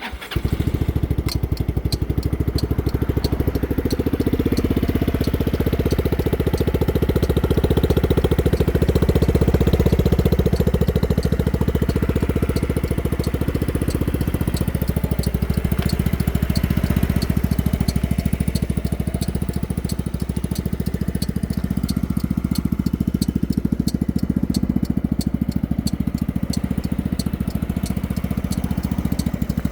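Yamaha Majesty 125 Fi scooter's single-cylinder four-stroke engine, breathing through an upswept aftermarket muffler, starts and settles straight into a steady idle.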